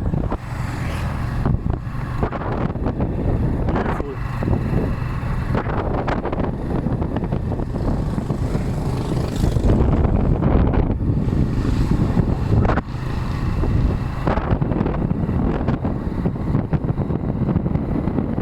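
Motorcycle taxi's engine running steadily while riding, with wind buffeting the microphone.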